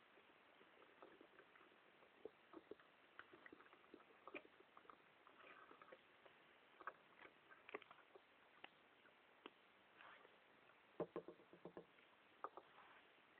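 Dog chewing gum: faint, irregular clicks and smacks of its jaws and mouth, coming in quick clusters with short pauses between them.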